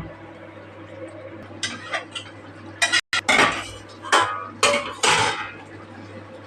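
A metal utensil scraping and clinking against a cooking pot in a handful of short bursts, starting about one and a half seconds in.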